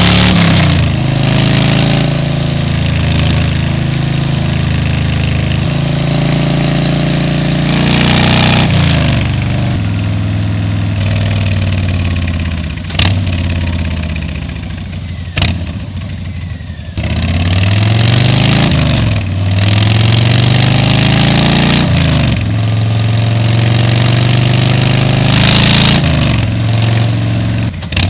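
Motorcycle engine and exhaust under way, the pitch rising and falling with throttle and gear changes, with a quieter easing-off lull about halfway through. Wind hiss on the helmet microphone swells at times, and there are two sharp clicks near the middle.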